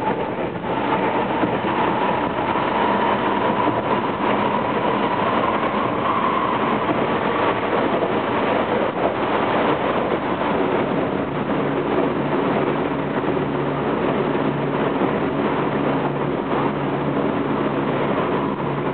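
Running sound of a Tokyo Metro 07 series electric train heard from inside the car: a continuous rumble of wheels and motors at speed. A whine sounds for the first several seconds and fades out about seven seconds in. A low hum comes up in the second half.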